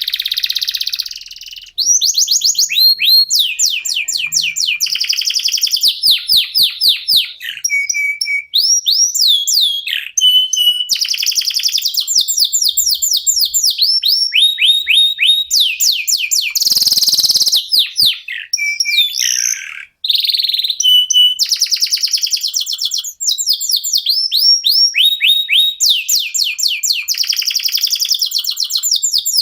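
Local domestic canaries singing: a continuous song of fast trills, each a rapid run of high, sweeping chirps, with short breaks between phrases and a harsh buzzy note about halfway through.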